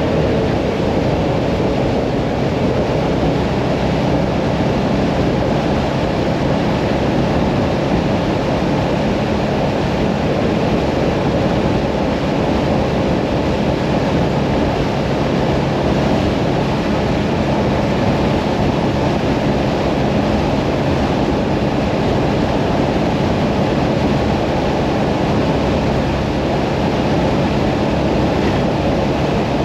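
Hyosung Mirage 650 V-twin motorcycle engine running at a steady cruising speed on an open road, with a constant rush of wind over the microphone.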